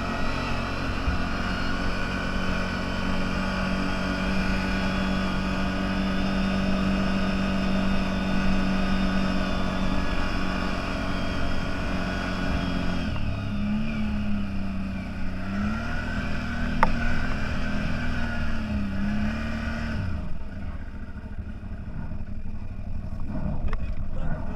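Engine of a CFMoto 1000 off-road vehicle running at a steady speed. After about 13 seconds the revs rise and fall several times, and about 20 seconds in the engine sound drops away to a lower level.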